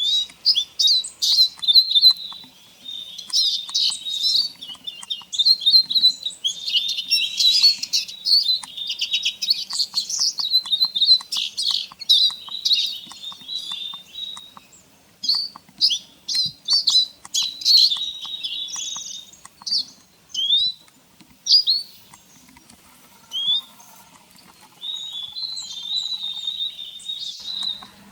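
Eurasian siskin song from a field-guide recording: a fast, dense twitter of chirps, trills and short rising notes, with brief pauses.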